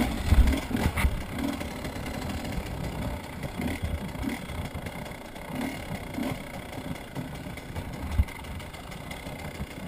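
Motorbike engine running with a rough, uneven note, broken by irregular low thumps, the loudest about half a second in and near the end.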